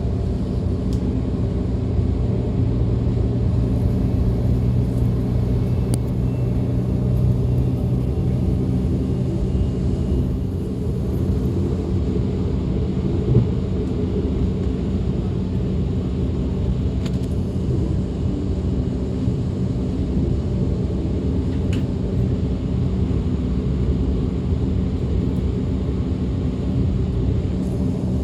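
DB class 425 electric multiple unit running along the line, heard on board: a steady rolling rumble with a low hum, one lower tone of the hum fading out about ten seconds in.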